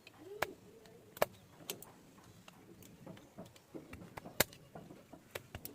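Hand tools clicking and tapping on metal during diesel cylinder-head repair work: about half a dozen sharp, irregularly spaced knocks over a faint background.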